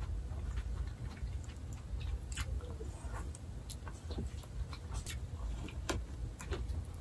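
A person chewing a mouthful of shiitake mushrooms and rice, with soft mouth noises and scattered small clicks, over a low steady hum.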